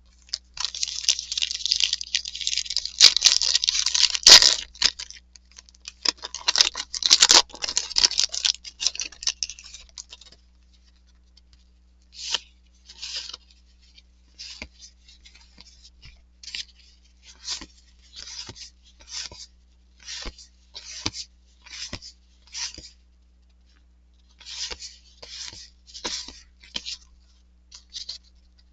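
A trading-card pack wrapper is torn open and crinkled for the first ten seconds or so. Then cards are flicked through one at a time, with short swishes about once a second.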